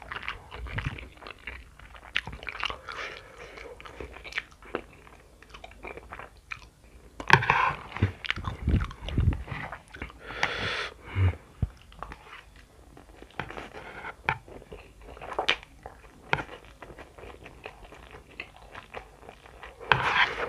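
Close-up chewing and crunching of spicy instant noodles mixed with crunchy flour-coated peanuts (sukro/pilus): irregular bites and wet mouth clicks, with louder crunching about seven seconds in and again about ten seconds in.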